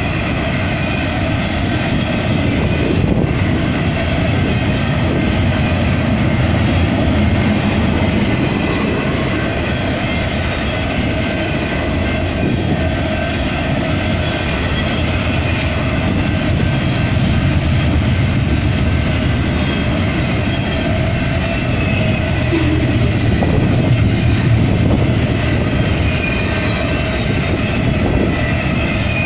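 A double-stack intermodal freight train's container cars rolling past at speed: a loud, steady rumble of steel wheels on rail, with thin high ringing tones held over it.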